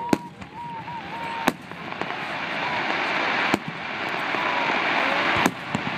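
Aerial firework shells bursting overhead: four sharp booms about two seconds apart over a hiss that grows louder. A thin whistle tone stops at about the second boom.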